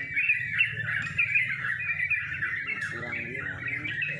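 Several sooty-headed bulbuls (trucuk) singing at once: a dense, unbroken chorus of quick, bubbly chirping phrases over a low steady hum.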